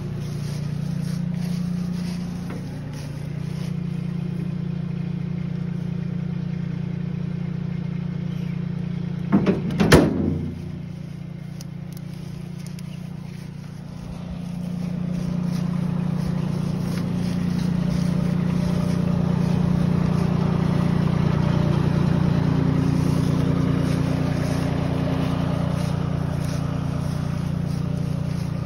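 Diesel tractor engine running steadily, with a loud short clatter of knocks about ten seconds in. The engine sound drops for a few seconds, then comes back stronger and holds.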